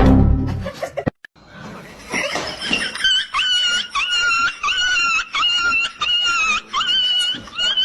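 An animal making a series of short, high-pitched calls in quick succession, each held about half a second, after a brief burst of noise at the start.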